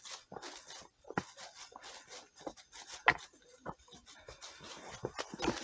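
Footsteps on a dirt forest trail: irregular scuffing and crunching steps, with one sharper click about three seconds in.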